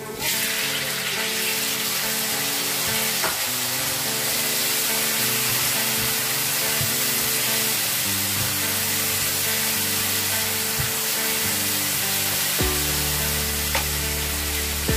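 Marinated sliced chicken dropped into a hot wok and frying: the sizzle starts suddenly at the start and stays steady while a spatula stirs it, with a few sharp clicks of the spatula against the pan.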